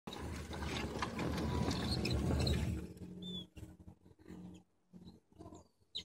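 Loud, rough noise for about the first three seconds, then a few short, high chirps from small birds between quieter stretches.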